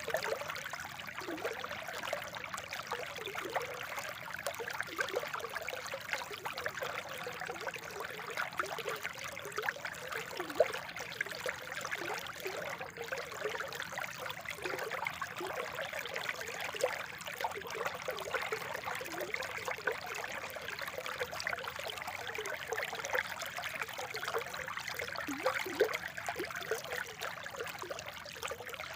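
Spring water trickling steadily, with many small gurgling, bubbling notes.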